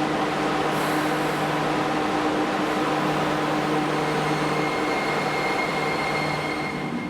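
Toei subway train moving along the station platform: a steady rail and running-gear noise with a low electric hum, joined about halfway by a thin high whine.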